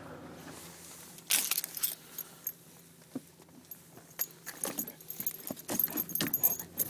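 Small metal objects jangling and clinking in irregular clusters of sharp clicks, starting about a second in, over a low steady hum.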